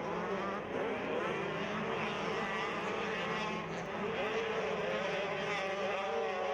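Several motocross bike engines running on track, their pitches overlapping and rising and falling as the riders work the throttle.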